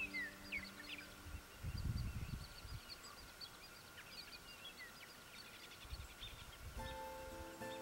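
Wild birds chirping and calling, many short high chirps overlapping. A held musical chord fades out in the first second and a half, and a brief low rumble comes about two seconds in. Plucked guitar music starts near the end.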